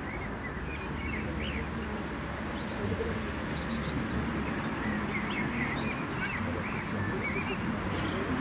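Small songbirds chirping in short, quick notes scattered throughout, over a steady low rumble.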